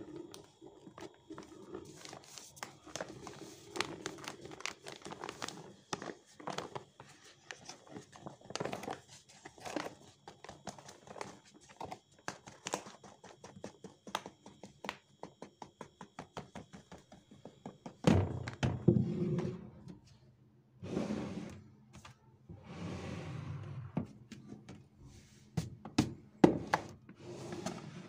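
Household items being handled and set down while a pantry cupboard is sorted: many light knocks and clicks, then louder rustling and thuds in the last ten seconds.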